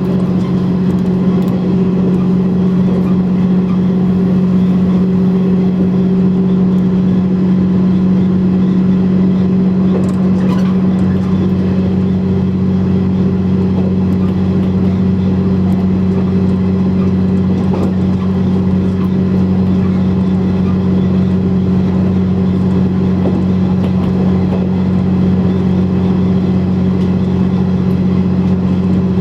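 KiHa 100 diesel railcar engine running steadily under way, with a deeper tone coming in about eleven seconds in.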